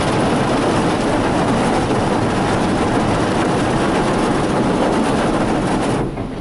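Ryko Softgloss XS automatic car wash working over the vehicle, heard from inside the car as a loud, steady wash noise on the body. It cuts off suddenly about six seconds in.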